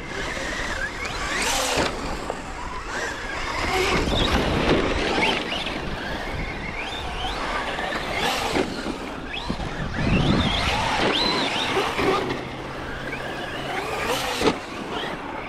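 Radio-controlled trucks' electric motors whining, rising and falling in pitch again and again with the throttle.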